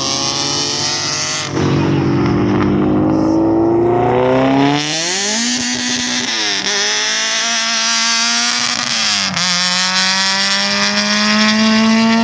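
Vehicle engine accelerating hard, its pitch climbing steadily and dropping sharply twice as it shifts up through the gears.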